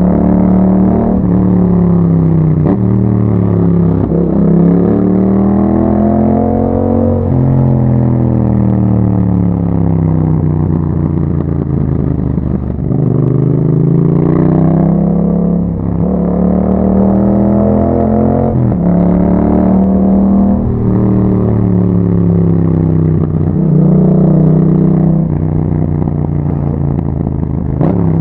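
Yamaha MT-07's parallel-twin engine through an Akrapovic exhaust, pulling up through the revs again and again. Each climb ends in a sudden drop in pitch as it shifts gear, and there is a longer slow fall in revs as the throttle is rolled off between about 7 and 13 seconds in.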